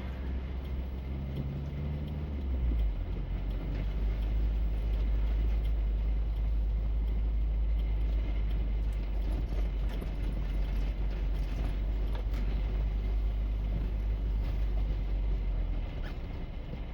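Four-wheel-drive truck running, a steady low rumble that drops off near the end.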